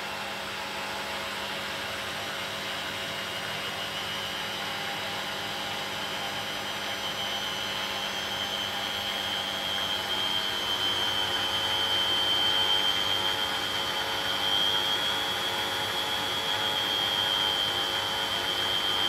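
Beko WTB740E1W washing machine on its spin cycle: a steady whirring with a high whine that grows louder and rises slightly in pitch as the drum speeds up.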